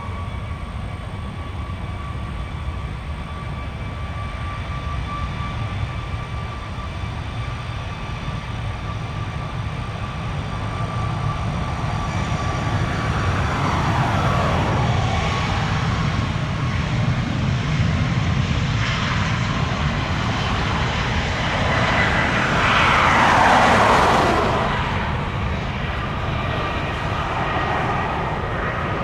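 Jet airliner's engines, a steady rumble with a whine that grows louder as the plane passes close, peaking a little after two-thirds of the way through with falling sweeps as it goes by, then easing off.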